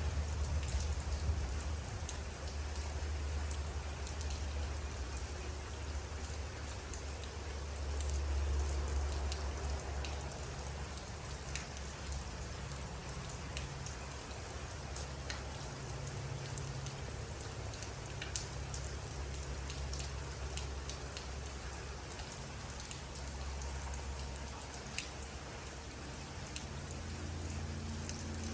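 Steady rain falling, a constant hiss with individual drops ticking sharply here and there. A low rumble runs underneath, swelling and easing every few seconds.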